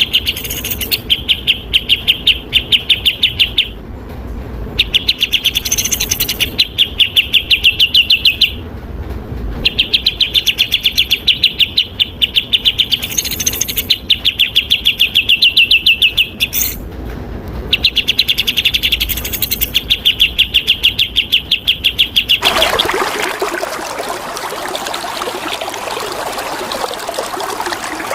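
Songbird singing fast runs of rapidly repeated high chattering notes in bursts of about two seconds, separated by short pauses. About 22 seconds in, the singing gives way to the steady rush of flowing water.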